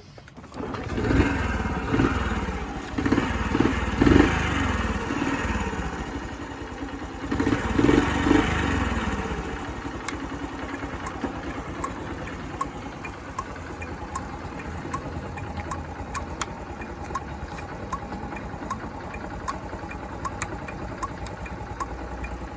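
Honda Super Cub C50's 49cc four-stroke single-cylinder engine catching about a second in and being revved up and down a few times, then settling into a steady idle from about ten seconds in.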